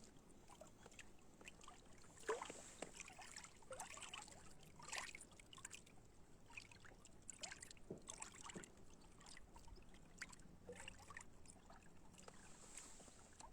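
Faint water lapping and trickling, with scattered small splashes and clicks at irregular moments.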